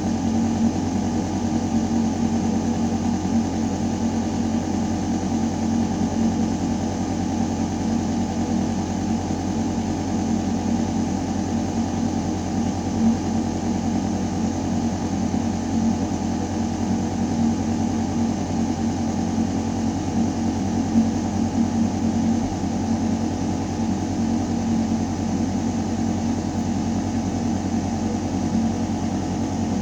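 Building ventilation system running in a shaft: a steady, deep mechanical hum with an even hiss of air moving through metal ductwork, unchanging throughout.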